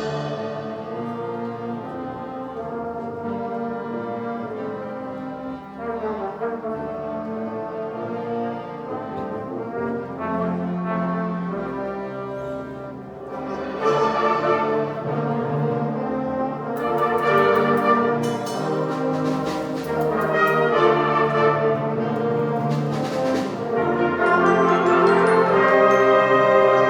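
School wind band playing, with brass most prominent in sustained chords; the band grows louder about halfway through, and sharp percussion strokes come in over it for a few seconds after that.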